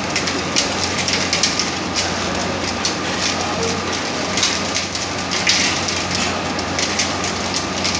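Spiral mixer running under power: a steady low electrical hum beneath a dense, irregular crackling clatter.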